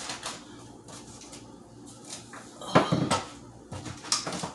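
Kitchen clatter: a few knocks and clunks of things being handled and set down on a counter, the loudest about three seconds in.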